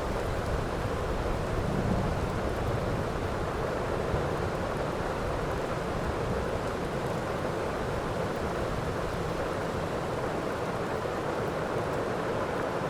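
Steady heavy rain falling, with a low rumble of distant thunder in the first few seconds that dies away.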